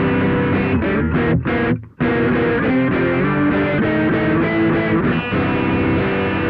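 Electric guitar played through a DIY SansAmp Classic-style distortion pedal, giving a distorted tone. Held chords are choked off in a few quick stops with a brief gap about two seconds in, followed by a run of changing notes and then another held chord.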